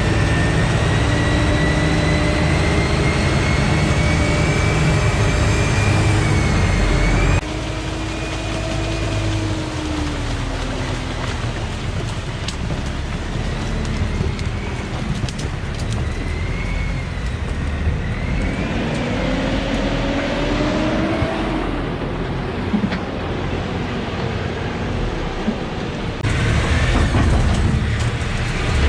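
Engine of a Sherp 10x10 all-terrain vehicle running, its pitch rising and falling as the revs change over a heavy low rumble. The sound changes abruptly about seven seconds in, dropping a little in level, and again near the end.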